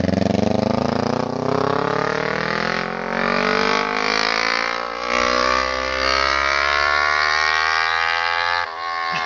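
Kawasaki Ninja 250R's parallel-twin engine running with no exhaust fitted, its pitch climbing steadily for several seconds as the revs rise, then dropping away suddenly near the end.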